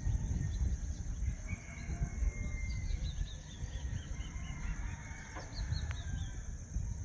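Dawn outdoor ambience: a small bird sings two runs of quick, high notes, each note falling in pitch, over a steady high-pitched hum and a low rumble.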